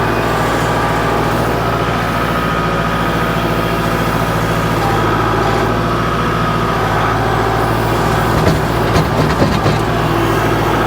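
Kubota L47 backhoe tractor's diesel engine running steadily, with a few knocks about eight to ten seconds in.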